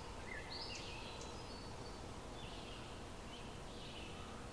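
Faint bird chirps, short calls repeated every second or so, over a low steady background noise.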